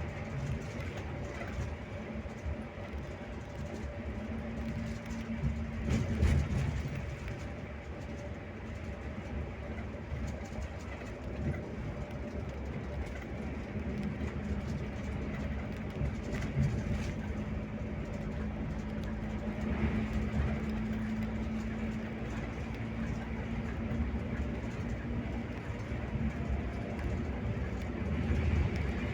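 Scania K360IB coach on the move: a steady engine drone with road rumble, the engine note shifting a little, and a louder bump about six seconds in.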